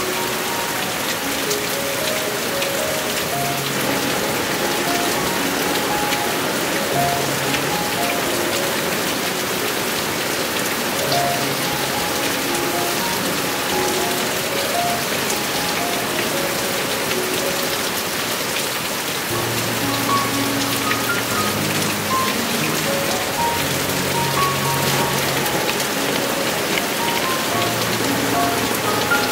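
Heavy rainy-season rain falling steadily, with a soft background melody of short notes playing over it; lower, fuller notes join about twenty seconds in.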